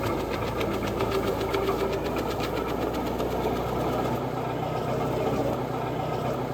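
Gasoline engine of a wood chipper running steadily, with a fast, even ticking over it that fades out about four seconds in.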